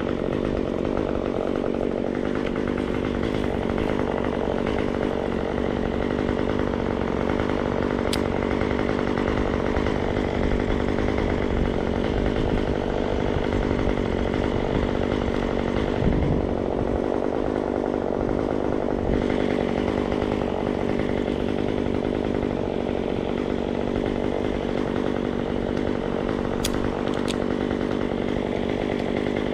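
Gas chainsaw running steadily at speed, cutting through wood.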